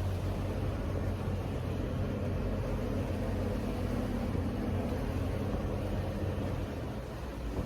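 Boat engine running steadily with a low hum, over a haze of wind and water noise.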